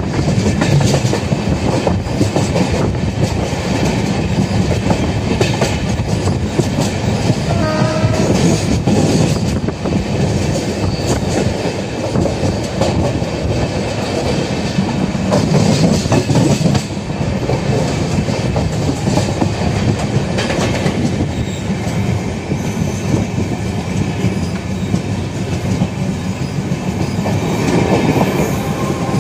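Indian Railways passenger train running at speed, heard from inside a coach: steady rumbling track noise with wheels clattering over rail joints.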